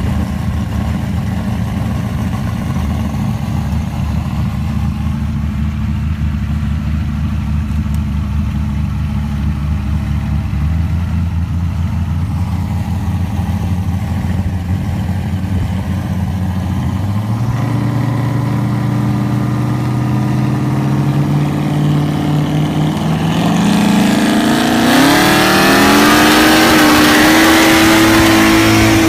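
Mazda 20B three-rotor rotary engine in an FC RX-7, heard from inside the car, running lumpy and low while rolling slowly, then revs climbing from a little past halfway, rising sharply near the end and holding a high, steady, loud note.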